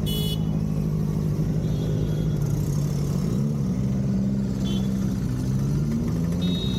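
Superbike engine idling steadily with a low, even hum, its pitch dipping slightly now and then.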